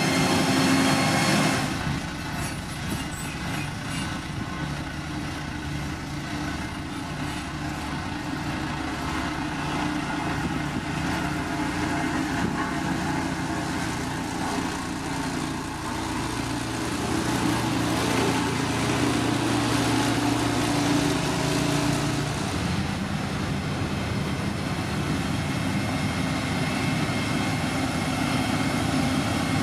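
Heavy diesel construction machinery running steadily at work, with the engine note shifting between about 16 and 22 seconds in.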